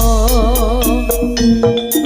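Jaranan music from a Javanese ensemble: a held, wavering note for about the first second, then short struck notes and drum hits, between sung lines of the song.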